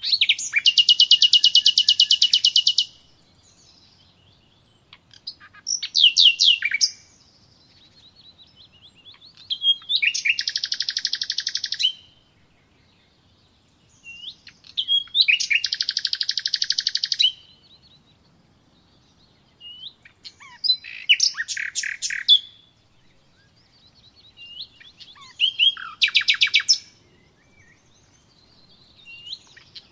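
Songbird song: high, rapid trills of repeated notes, each phrase lasting about two to three seconds and coming roughly every four to five seconds, with short soft chirps in the gaps.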